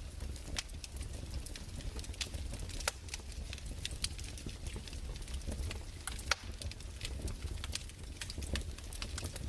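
Wood fire crackling in a fireplace: irregular sharp pops and snaps over a low steady rumble, with one louder pop about six seconds in.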